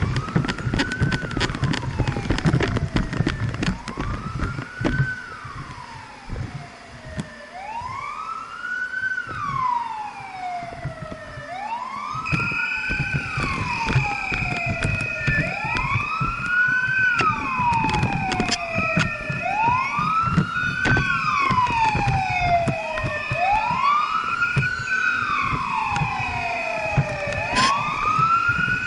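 Fire truck siren wailing, each cycle rising quickly and falling slowly about every three to four seconds, and growing louder as the truck approaches. About halfway through, a steady high-pitched tone joins the wail, over the rumble of traffic.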